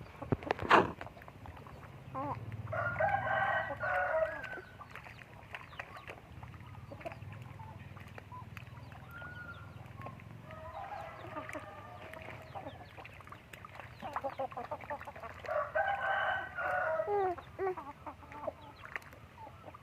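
Rooster crowing three times, each call about two seconds long, with a sharp knock about a second in.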